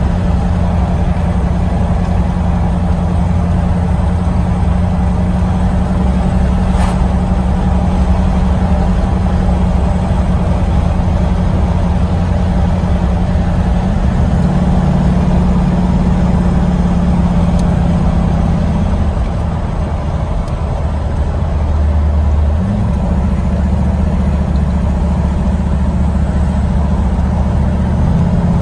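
1982 Corvette's 350 V8 running while the car drives along, heard from inside the cabin with road noise. The engine note steps up in pitch about halfway through, falls back a few seconds later and rises again near the end.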